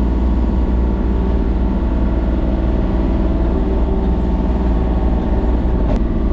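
An engine running steadily at a constant speed, with a strong low drone.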